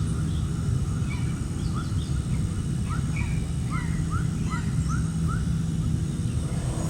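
Birds chirping over a steady low rumble, with a quick run of about five short rising chirps around the middle.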